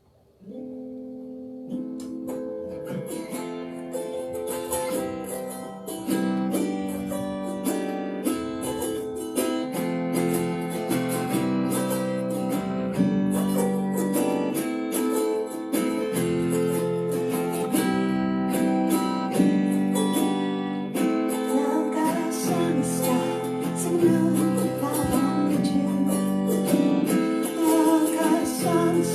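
Acoustic guitar music, plucked and strummed, starting up out of near silence about half a second in and carrying on steadily.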